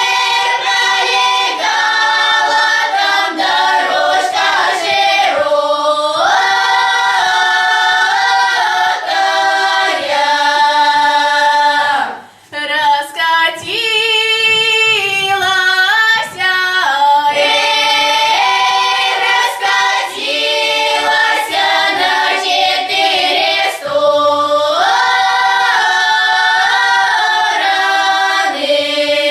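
A choir of female voices singing a Russian folk song in long, drawn-out notes, with a short pause about twelve seconds in.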